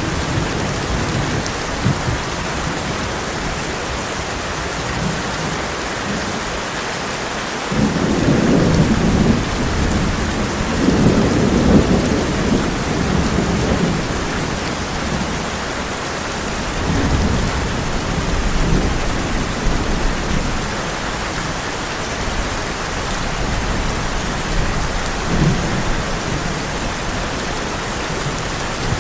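Heavy rain on a tin roof, a steady hiss, with rolling thunder. A long rumble builds about eight seconds in and lasts several seconds, and fainter rumbles follow later.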